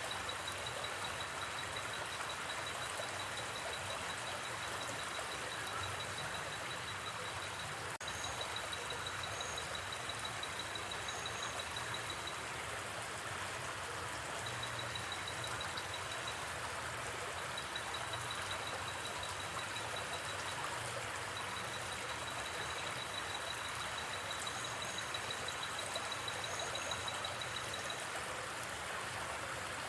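Steady rush of a gently flowing river, with a rapid, even insect trill that stops and starts every few seconds and a few short, higher chirps.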